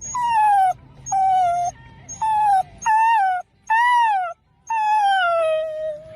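Dog giving six drawn-out, high whining cries in a row, each sliding down in pitch, the last one the longest.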